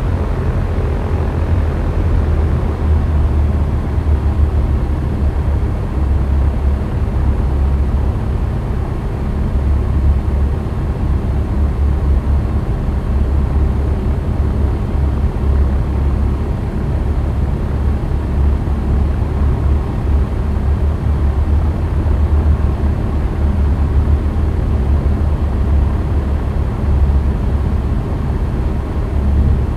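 Cessna 172's piston engine and propeller running steadily, a constant low drone.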